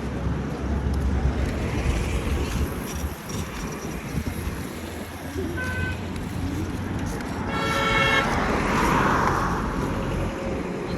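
City street traffic: vehicle engines running and passing, with a short horn toot about two-thirds of the way through.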